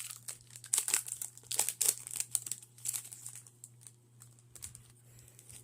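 Foil wrapper of a Pokémon card booster pack being torn open and crinkled by hand, a dense irregular crackle that is busiest for the first three seconds and then thins out.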